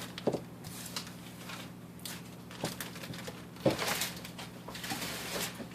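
Packaging being handled by hand: a few sharp clicks and knocks with light rustling, over a steady low hum.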